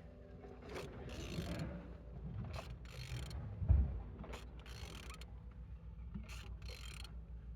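Used Opel Z18XER 1.8-litre four-cylinder petrol engine being turned over by hand, not running. Its internals make a low rumble with repeated mechanical clicks and scrapes as it rotates, and it turns well.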